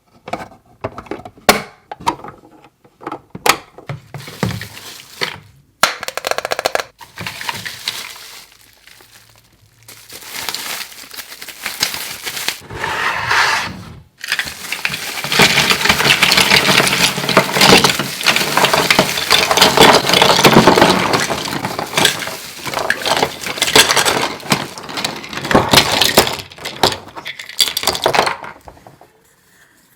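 Small plastic toy kitchen pieces handled: sharp clicks and clinks in the first half, then a long stretch of dense crackling and rustling that dies away near the end.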